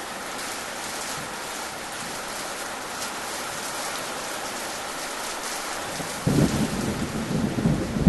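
Steady rain falling, an even hiss. About six seconds in, a low rumble of thunder sets in and keeps rolling.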